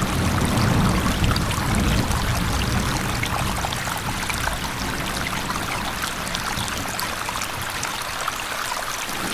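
Steady rushing, splashing water noise with fine crackle in the highs. A low rumble under it fades away over the first few seconds.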